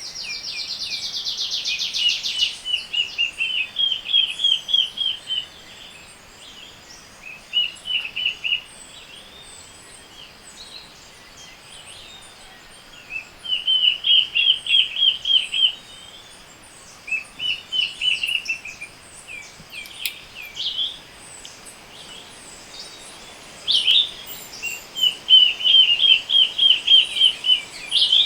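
Tropical forest birds in a morning chorus: one bird repeats short, fast series of high chirping notes every few seconds, with a dense rattling buzz in the first two seconds and fainter calls from other birds behind.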